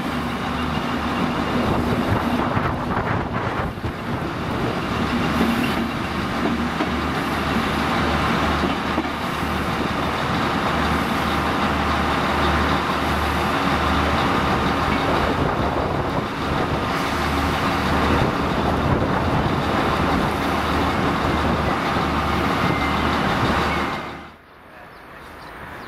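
Enterprise passenger train moving slowly along the station tracks: a steady rumble of coaches over the rails, with a pulsing low rumble underneath. Near the end the sound drops away abruptly.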